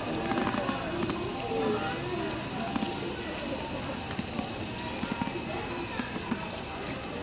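Loud, steady insect chorus, a shrill, rapidly pulsing drone, with fainter wavering voices or calls beneath it.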